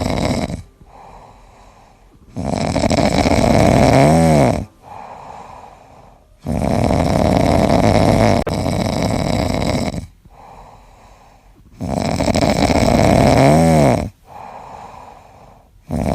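Loud, rhythmic snoring from a sleeping pet. A long, loud snore comes about every four seconds, each lasting two to three seconds, with quieter breaths between.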